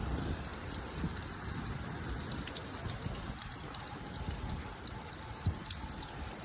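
Heavy rain falling, with scattered ticks of drops hitting close by. Low gusts of wind buffet the microphone now and then.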